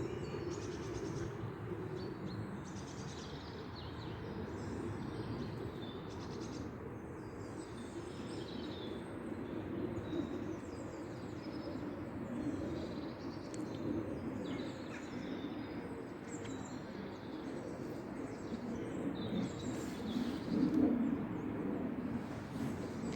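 Small birds chirping and singing on and off throughout, over a steady low background rumble.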